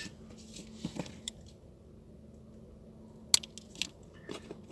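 Scattered small clicks and taps of craft materials being handled, with one sharp click a little past three seconds in.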